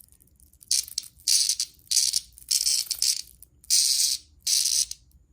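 A caught cicada buzzing loudly in about six harsh, rasping bursts, each about half a second long with short gaps between: the distress buzz of a handled cicada.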